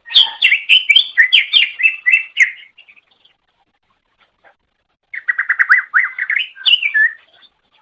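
Cucak ijo (green leafbird) singing in two bursts of rapid, varied chirping and sweeping notes, with a pause of about two seconds between them.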